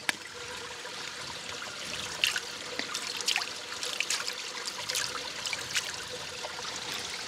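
Fresh water trickling, with a few irregular small splashes and clicks as a fishing reel is rinsed in it.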